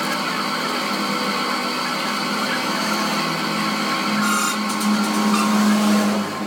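A machine tool's electric motor running steadily with a whine, getting louder about four seconds in and dropping off just before the end.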